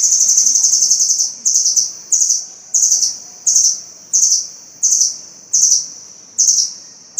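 Small songbird singing a high-pitched trill: one long trill at first, then short trills repeated about every two-thirds of a second.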